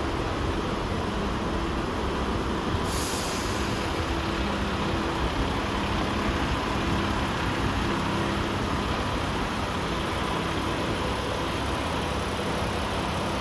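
DAF CF460 tractor unit's Paccar 460 bhp diesel engine idling steadily, with a short hiss of released air about three seconds in.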